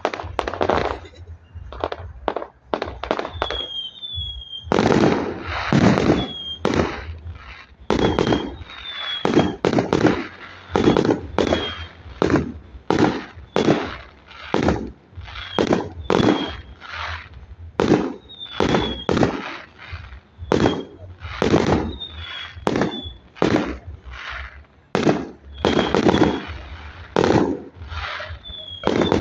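Fireworks display: a rapid run of aerial shell bursts, about one to two bangs a second, each with a rumbling tail, mixed with short high falling whistles.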